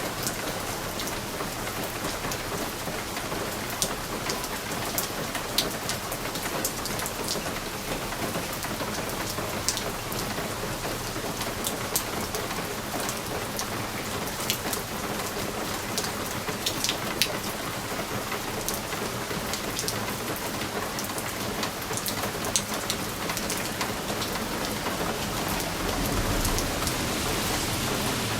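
Steady rain pattering on a window pane, with many sharp individual drop ticks against the glass over an even hiss. A low rumble swells in near the end.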